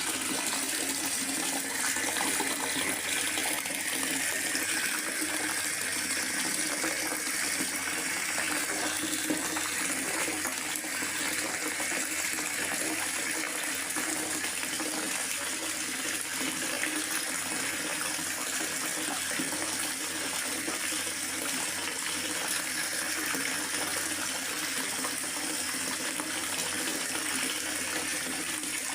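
Steady rain falling in a forest, an even hiss of water that holds at the same level throughout.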